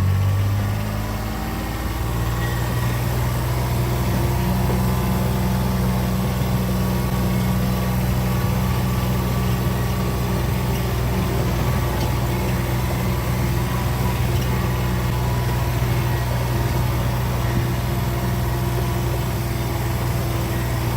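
A motor vehicle's engine running steadily. Its tone drops slightly in the first second or two, then holds an even drone.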